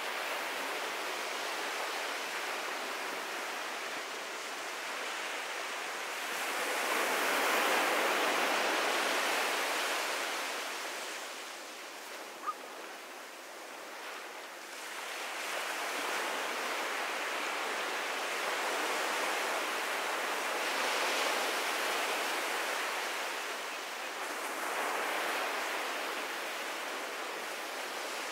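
Ocean surf washing onto a beach: a steady rushing that swells and eases as waves come in, loudest a few seconds in and again through the second half. A single brief high blip about halfway through.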